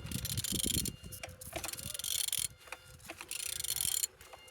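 Ratchet wrench clicking in three bursts as a car engine's crankshaft is turned over by hand, showing the engine turns freely.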